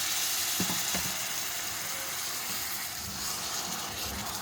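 Fried onion-and-spice masala sizzling in a hot pot just after tamarind water and masala water have been poured in, a steady hiss with a light crackle, and two short knocks about half a second and a second in.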